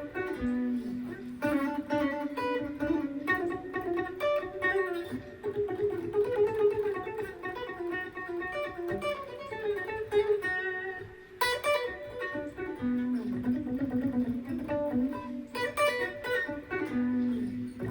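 Gibson ES-335 semi-hollow electric guitar played through an amp, picking a classical-style piece as a run of single notes and arpeggios.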